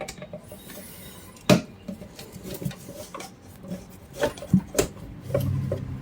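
Scattered clicks, clinks and knocks of a screwdriver, screws and metal covers being handled while a Sunn SA20 amplifier is taken apart, with one louder knock about a second and a half in and a quick run of knocks later. A low steady hum starts near the end.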